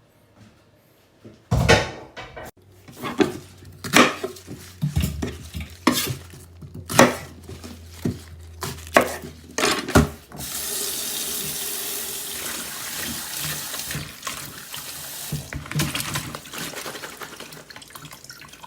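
Kitchen sink work: a series of knocks and clatter of dishes and utensils being handled, then from about ten seconds in a tap running steadily.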